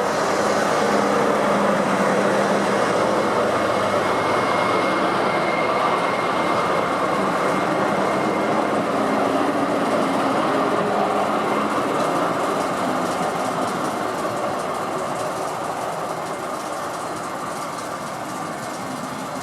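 A train running along the track past the station, a steady rail rumble that is loudest about two seconds in and then slowly fades.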